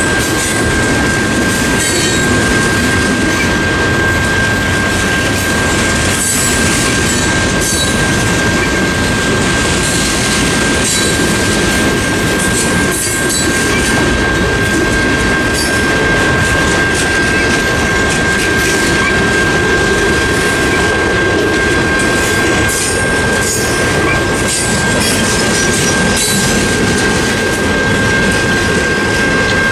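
Freight cars rolling past over a grade crossing, wheels clacking and rumbling, with the crossing's General Signals Type 1 electronic bell ringing throughout as a steady high tone.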